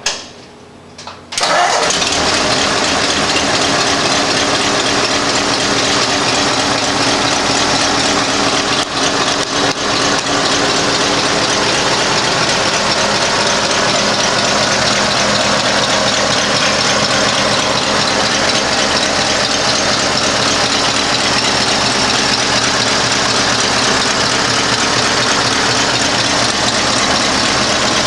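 1952 Ford truck's 239 flathead V8 starting about a second in, then running steadily at idle, with a brief dip around nine seconds. It is the engine's first run after sitting unused for seven years.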